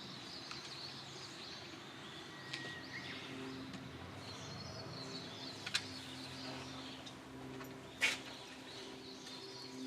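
Birds chirping and calling in many short notes, with a sharp click a little before the middle and a louder one about 8 seconds in, over a steady low hum.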